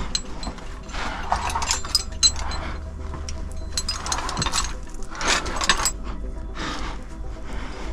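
Metal climbing gear clinking and jingling, with scraping and rustling against rock that comes in three or four bursts as the climber handles gear and moves.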